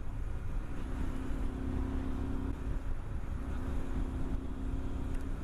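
Honda Varadero 125's V-twin engine running at a steady cruising pitch while riding, over a heavy low rumble of wind and road noise.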